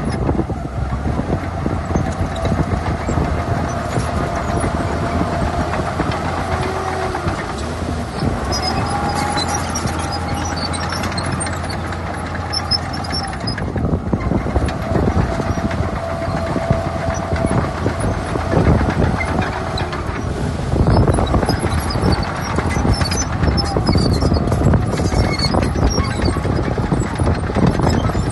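Heavy diesel earthmoving machinery running, with a wavering whine over a steady low engine hum; about halfway through the hum drops away and the sound turns rougher and louder.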